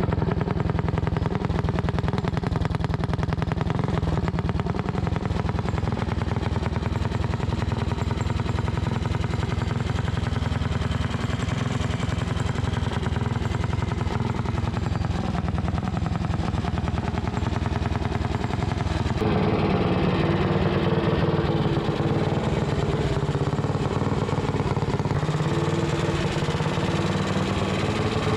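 Mini bike's Tillotson 263cc single-cylinder engine with an aftermarket super pipe exhaust, running continuously. Its note changes about two-thirds of the way through, with more low-end weight.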